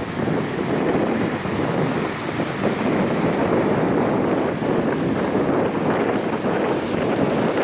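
Wind buffeting the microphone, a steady fluttering rush, over the wash of beach surf.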